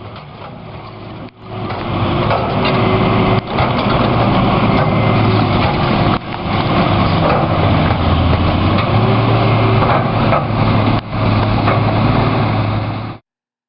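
Engine of heavy demolition machinery running steadily, its pitch rising and falling a little as it works, with scattered knocks and clatter. It cuts off suddenly near the end.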